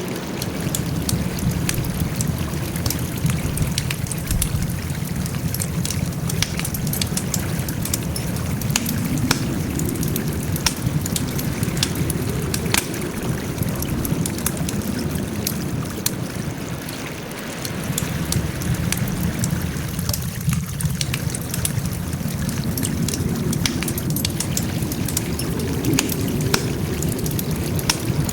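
Wood campfire crackling: a dense, irregular run of small sharp pops over a steady low rush that swells and eases slowly a couple of times.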